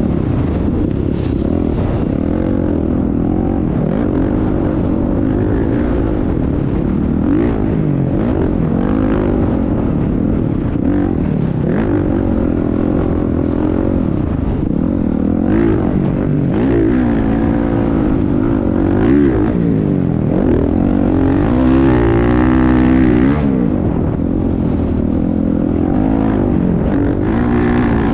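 Motocross bike engine running hard, its pitch rising and falling repeatedly as the rider opens and closes the throttle.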